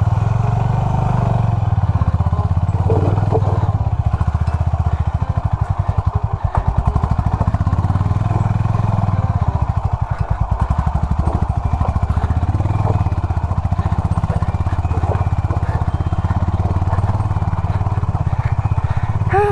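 Motorcycle engine running steadily at low revs, its firing beat even and unbroken, with a few light clicks and knocks over it.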